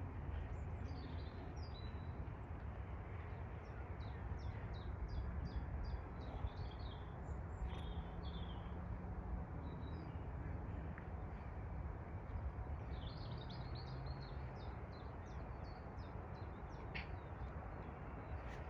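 Small birds chirping in quick runs of short high notes over a steady low rumble of background noise.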